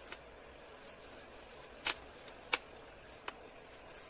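Rolling pin on a board, rolling maida dough out into a large flat sheet: a quiet rolling sound with three sharp clicks from about two seconds in, the middle one the loudest.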